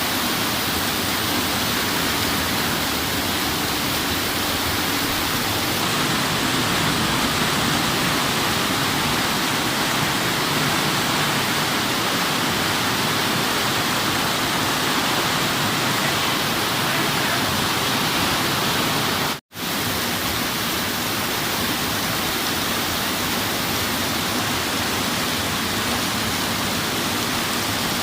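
Torrential rain pouring down, a steady dense hiss. It cuts out for an instant about two-thirds of the way through.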